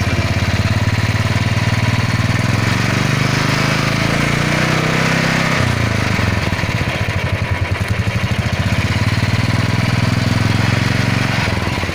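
Royal Enfield motorcycle engine running with its chain turning, revved up twice and dropping back to a lower speed each time.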